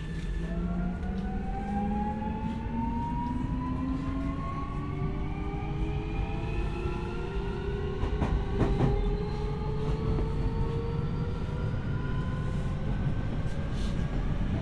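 Keio 1000 series (3rd batch) electric train pulling away from a station, heard from inside the car: its inverter's low-pitched asynchronous whine, several tones together, rises steadily in pitch as the train gathers speed over a bed of wheel and track rumble. A few rail-joint knocks come about eight seconds in.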